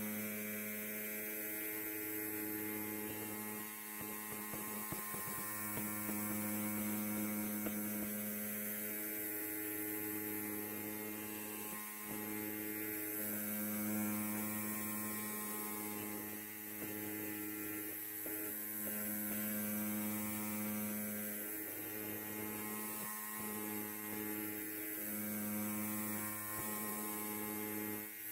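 Electric hair clipper running with a steady low buzz, its tone shifting slightly every few seconds.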